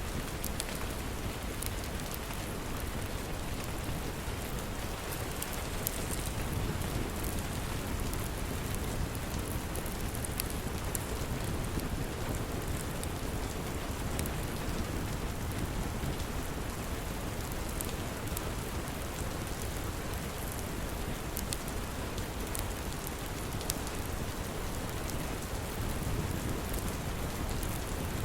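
Steady rain as a dense, even hiss, with scattered sharp crackles from a wood fire in a fireplace.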